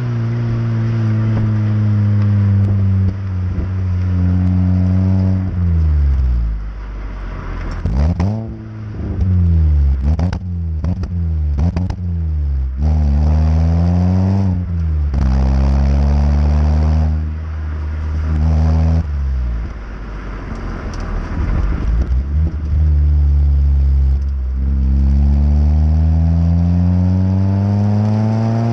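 Vauxhall Astra H 1.8 VVT four-cylinder petrol engine through a stainless cat-back exhaust, revving repeatedly. The pitch climbs, drops sharply and climbs again several times, with a long steady climb near the end.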